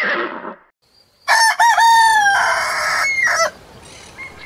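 The tail of a horse's whinny fades out, then about a second later a rooster crows once: a cock-a-doodle-doo in several parts lasting about two seconds, ending on a long held note.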